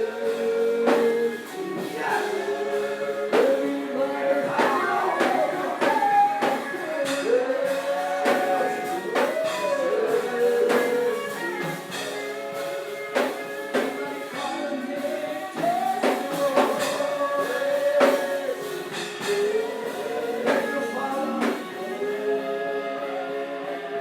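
Congregation singing a gospel praise song together, with instrumental accompaniment and a regular beat.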